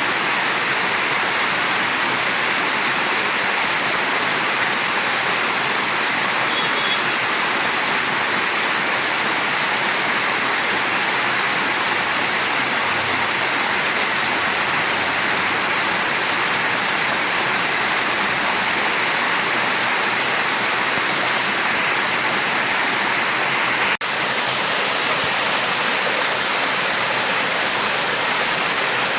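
Mountain stream flowing: a steady, even rush of water, with a momentary break in the sound late on.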